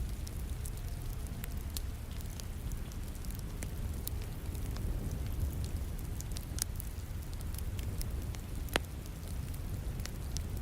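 Wood fire crackling with sharp, irregular pops, the loudest about nine seconds in, over a steady hiss and low rumble of falling rain.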